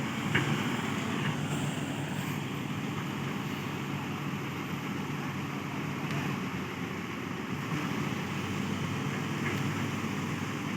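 Heavy diesel engine running steadily at low revs, a continuous even hum with no changes in speed.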